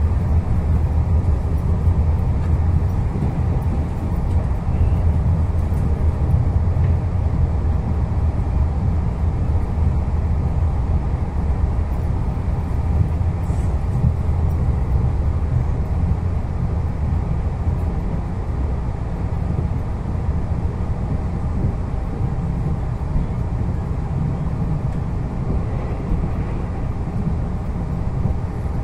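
A Taiwan Railways Puyuma Express (TEMU2000 tilting electric multiple unit) running at speed, heard from inside the carriage: a steady low rumble of wheels on rail and running noise.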